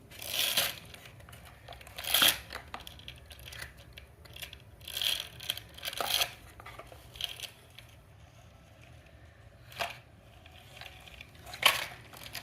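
A handful of short, irregular scraping and rustling sounds of objects being handled, about six bursts spread out, with quieter stretches between.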